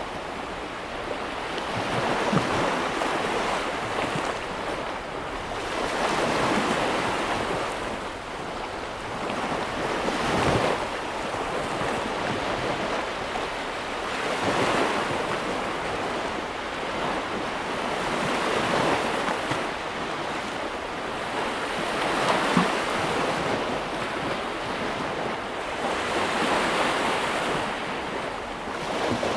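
Sea waves breaking on a shore: the surf swells and washes in about every four seconds, over a continuous rush of water.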